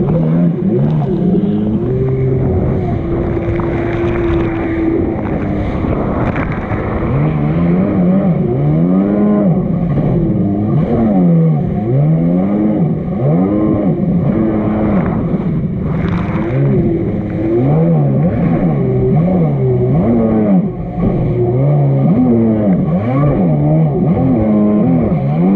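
Two-stroke engine of a 1999 Sea-Doo XPL personal watercraft running hard. Its pitch holds fairly steady at first, then rises and falls over and over, about once a second.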